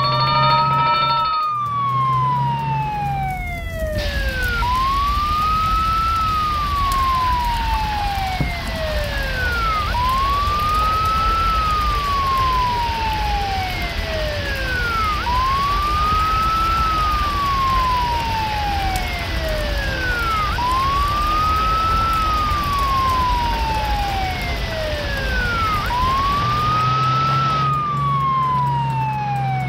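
Fire truck siren wailing, each cycle rising quickly and falling slowly, about one every five seconds, over a steady rushing vehicle noise.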